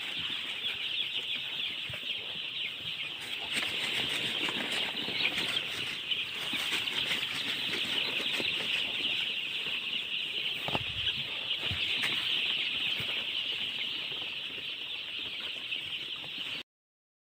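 Many baby chicks peeping together in a dense, continuous chorus, with a soft low thud or two partway through, cutting off abruptly near the end.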